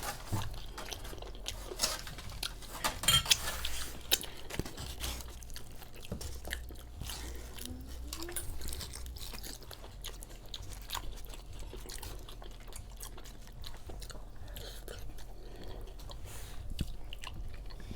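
Chewing and crunching on Doritos nachos: many short, irregular crunches, most frequent in the first few seconds, then softer chewing.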